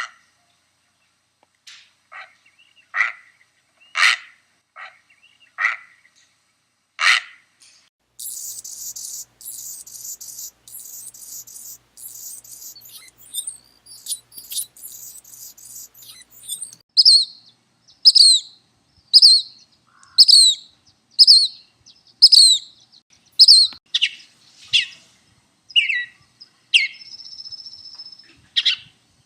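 A series of bird calls of several kinds. First come short separate calls, then a dense high twittering buzz from about 8 to 16 seconds in, then sharp down-slurred whistled notes about once a second.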